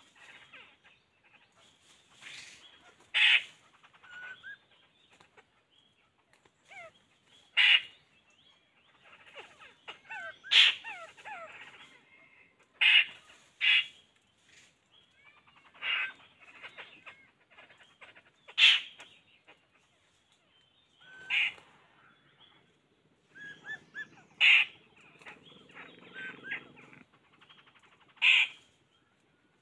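Birds calling: a short, loud call repeats about every two to three seconds, around ten times, over softer chirping.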